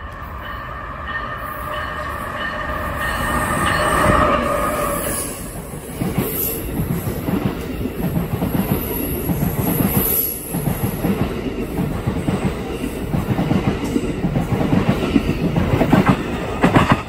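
Amtrak passenger train with Amfleet coaches passing the platform at speed. A steady whine from the head end builds to its loudest about four seconds in and fades, then the coaches' wheels clatter rapidly over the rail joints as the train rushes past.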